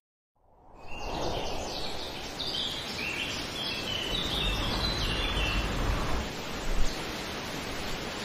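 Outdoor woodland ambience: a bird chirping a quick run of short, repeated high notes over a steady rush of outdoor noise, fading in after a moment of silence at the start. A single brief knock sounds about two-thirds of the way through.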